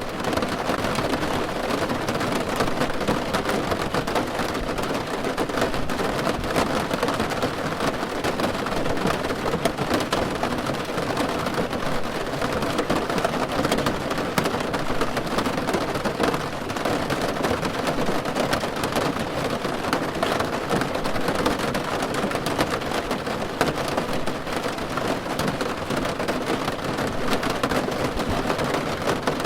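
Steady rain drumming on a car roof, a dense patter of drops heard from inside the car.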